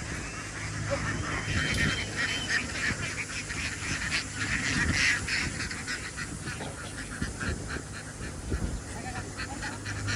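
A flock of domestic ducks quacking, many short calls overlapping without a break.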